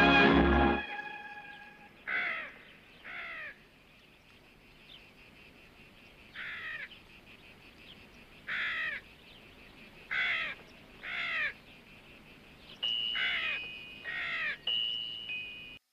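Background music fades out within the first second, then a bird calls: short calls repeated about eight times, several in close pairs, over a quiet outdoor background.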